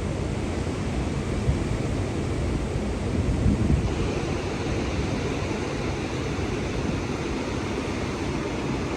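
Ocean surf breaking on the beach, a steady wash, with wind buffeting the microphone in low rumbles, strongest about three and a half seconds in.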